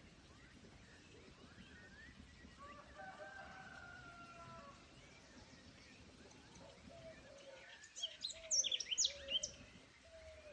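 Birds calling in a forest. A long, drawn-out call comes about three seconds in, and a flurry of sharp, high chirps, the loudest sound, comes near the end.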